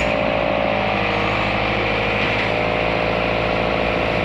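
Backhoe's diesel engine running steadily as the machine works, its pitch shifting slightly about two and a half seconds in.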